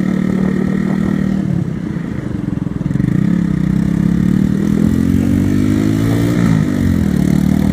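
Motorcycle engine running, heard from the rider's seat; its pitch climbs gradually from about three seconds in, drops sharply at about six and a half seconds, then holds steady.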